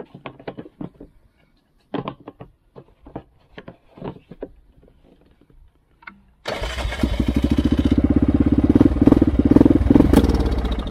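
ATV engine being cranked in short, separate attempts, then catching suddenly about six and a half seconds in and running loudly with an even firing pulse for about four seconds before fading. The owner says it backfired and blew the gas line and carburetor off, a sign of a loosely fitted carburetor.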